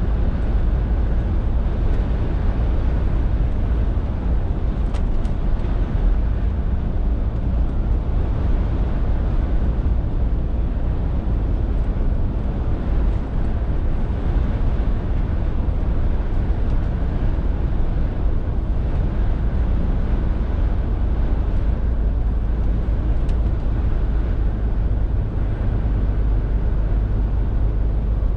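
Scania R450 articulated lorry under way: its 13-litre six-cylinder diesel engine runs steadily along with tyre and road noise, a constant low rumble. Faint ticks come about 5 and 23 seconds in.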